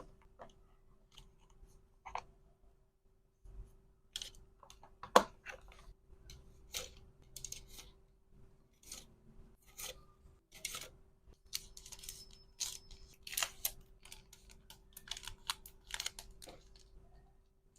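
Hands handling packaging and small items: irregular clicks, taps and crinkly rustles, with one sharp click about five seconds in, over a faint steady hum.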